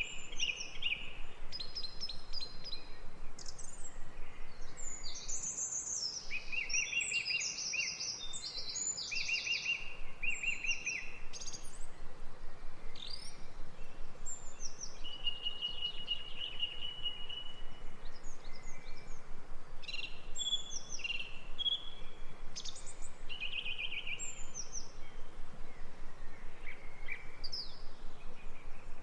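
Several songbirds singing at once: overlapping chirps, rapid trills and short whistled notes, over a steady background hiss.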